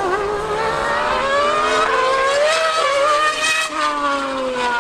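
A V8 Formula 1 car and a Yamaha R1M superbike revving hard as they accelerate in a drag race, their engine note climbing in pitch for about three and a half seconds, with a brief dip near the middle, then falling away.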